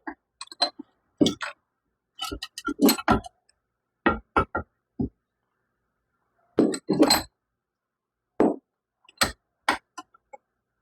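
Steel T-post clinking and knocking against metal in irregular bunches of sharp knocks as it is worked to straighten a bend.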